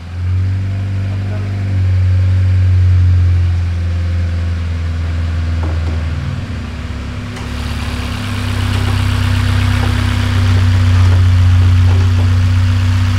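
Honda Civic Type-R's four-cylinder engine running steadily on a chassis dyno, a constant low hum that dips briefly around the middle. A steady hiss joins over it about halfway through.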